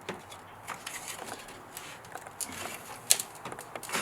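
Small plastic clicks and scrapes as the trim clips along the back of a BMW's front grille are pushed and worked by hand, with one sharper click about three seconds in.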